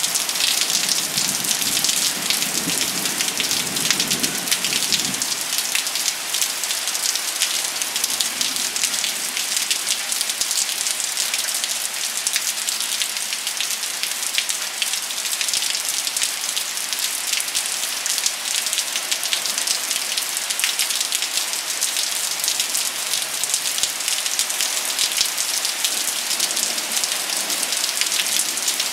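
Steady rain falling: a dense, even hiss of drops with many fine individual taps. A low rumble sounds underneath for roughly the first five seconds.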